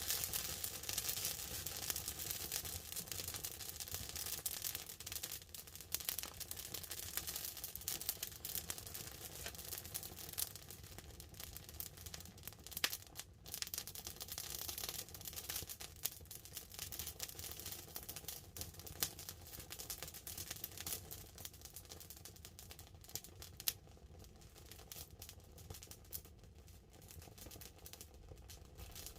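Wood campfire crackling with dense small pops over a steady hiss of light rain on the tarp overhead. Two sharper, louder pops stand out, about 13 seconds in and near 24 seconds.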